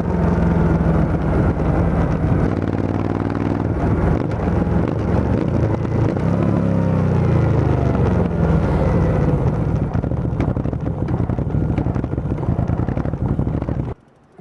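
Motorcycle engine running loud through an aftermarket Arrow full exhaust system with the dB killer removed, revved so the pitch rises and falls. The sound cuts off suddenly near the end.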